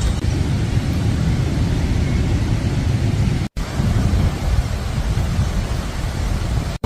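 Strong gusting wind buffeting the microphone, a steady low rumbling noise. The sound drops out for an instant twice, about halfway through and at the end.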